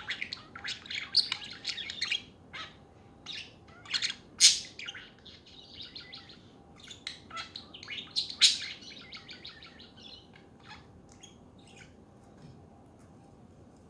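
Budgerigars chattering with fast warbling chirps, with two sharp louder calls about four and a half and eight and a half seconds in. The chatter thins to occasional chirps over the last few seconds.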